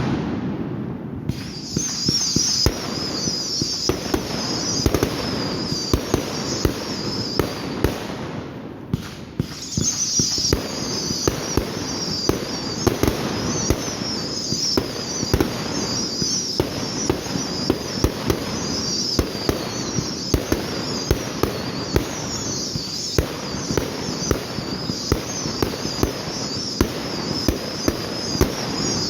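Fireworks going off: a long, irregular string of sharp bangs, several a second at times, with a continuous high, wavering sound behind them that stops briefly about nine seconds in.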